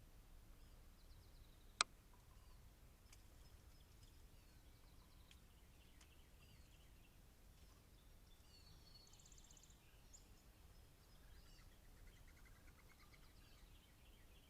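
Faint outdoor birdsong: scattered small chirps and quick trills from songbirds, with one sharp click a couple of seconds in.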